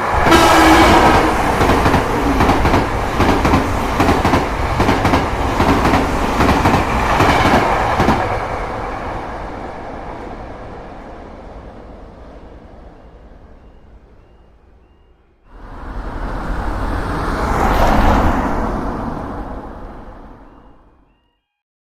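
Train passing with a rapid clickety-clack of wheels over rail joints. It starts abruptly and fades away over about fifteen seconds. A second train then comes through, rising to a peak and dying away, cut off just before the end.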